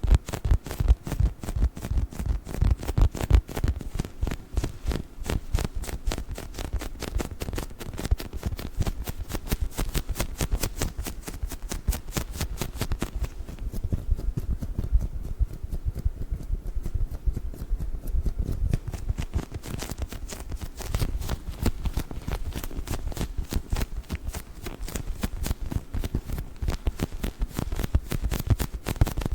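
Squishy dinosaur toy being squeezed and tapped rapidly: a dense, continuous run of quick soft squishes and taps, heavy in the low end.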